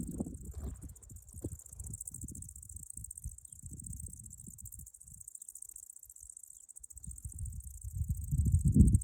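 Insects chirring: a steady, high, very fast pulsing trill. Under it an irregular low rumble comes and goes, loudest near the end.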